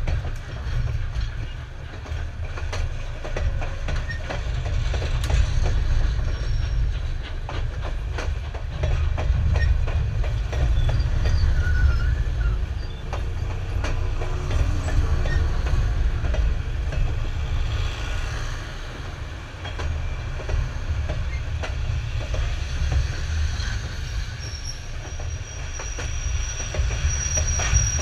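Passenger cars of an excursion train rolling past close by: a steady heavy rumble, with wheels clicking over the rail joints. A thin, high wheel squeal comes in over the last few seconds.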